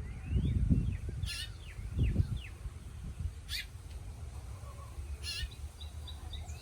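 House finches chirping: short sharp calls about three times, with small quick chirps in between. Low rumbles on the microphone in the first two seconds.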